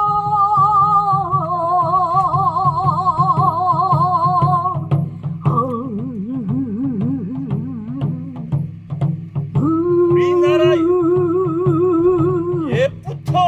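Korean traditional singing (sori) in long held notes with a wide vibrato, over a steadily pulsing accompaniment. There is a short break near the middle, and a new long note is taken up about ten seconds in.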